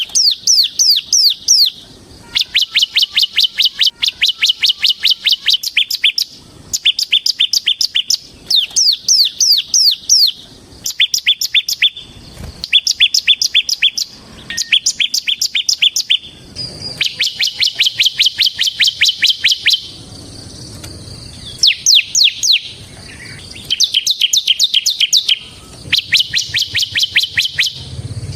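Bar-winged prinia (ciblek) singing in fast, drilling trills: rapid strings of sharp, high notes, about ten a second, in loud bursts of one to three seconds with short pauses between.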